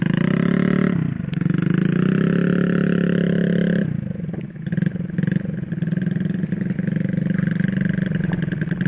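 Trail motorcycle engine revving close by. It rises about a second in and holds high, eases off about four seconds in to a lower, uneven throttle, and picks up again at the end.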